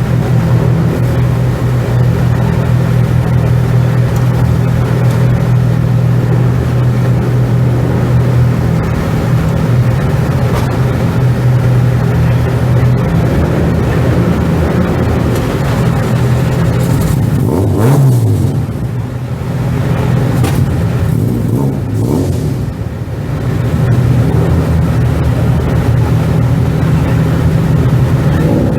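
Car engine idling steadily and loudly, with one brief rev that rises and falls about two-thirds of the way through.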